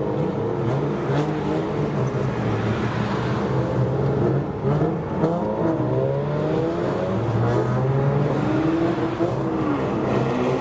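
Engines of several kaidō racer–style classic cars running together, their overlapping engine notes rising and falling as they rev and accelerate.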